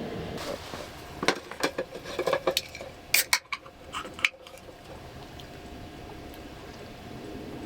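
Dishes and utensils clinking and knocking together in a quick series of short, sharp clicks for about three seconds, with a faint steady hum underneath.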